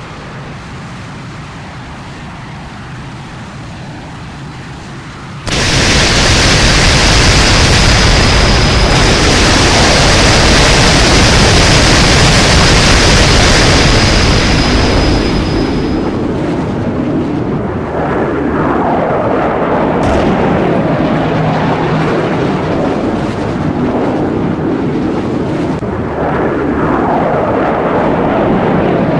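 Jet aircraft engine noise: after a quiet stretch, a loud roar starts suddenly about five seconds in, with a steady high whine over it. The whine drops away about halfway through, and the roar carries on somewhat lower and uneven.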